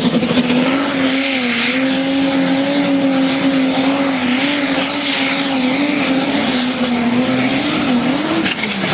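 A competition pulling vehicle's engine running flat out under load, holding a high, nearly steady pitch with small wavers, then rising briefly and falling away near the end as the throttle comes off.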